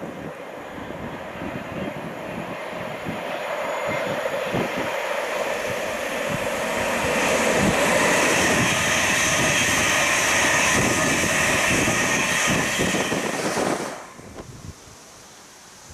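A passenger train on the East Coast Main Line approaching and passing, building to a loud steady rush and then cutting off abruptly about fourteen seconds in.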